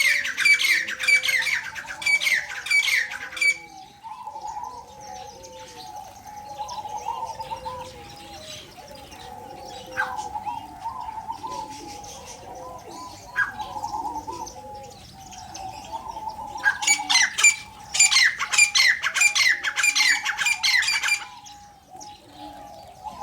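Captive birds calling: two loud stretches of fast, rapidly repeated harsh chattering calls, one at the start and one from about 17 s in, each lasting a few seconds, with softer, lower calls going on between them.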